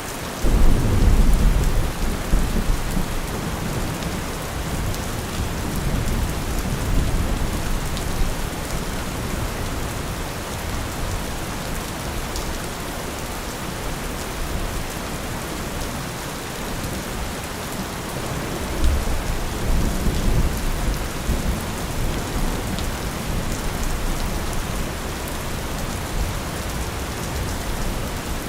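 Steady rain with low rolls of thunder: a rumble breaks in sharply just after the start and fades over several seconds, and another rolls in about two-thirds of the way through.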